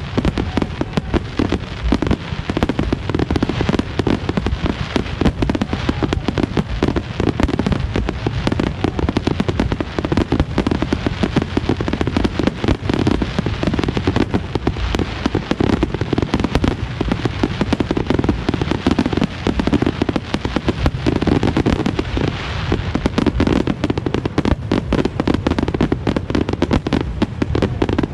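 Fireworks display going off in a dense, continuous barrage of bangs, one after another with no pause.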